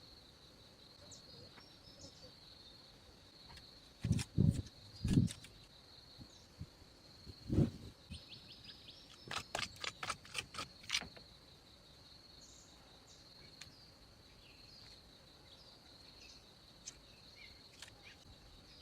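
Steady high insect drone outdoors, broken by a few heavy dull thuds about four to five seconds in and again near seven and a half seconds, then a quick run of about eight sharp knocks a little later.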